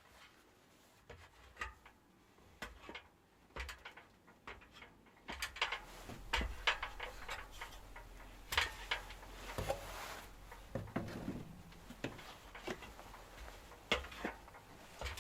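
Irregular light clicks and knocks, scattered and unevenly spaced, with a low steady rumble joining about five seconds in.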